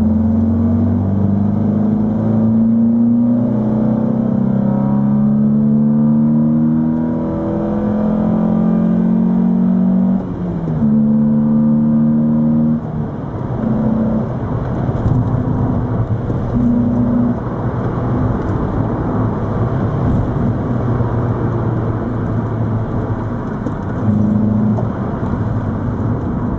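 Peugeot 206 GT's 2.0-litre 16-valve four-cylinder engine, with an aftermarket intake kit, accelerating hard through the gears. The pitch climbs steadily for about ten seconds, then drops at gear changes about ten and thirteen seconds in before it pulls again.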